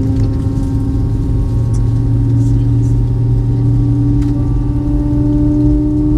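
Cabin sound of an Airbus A320's IAE V2500 jet engines running, heard over the wing: a steady hum with a few pure tones whose pitch slowly rises a little.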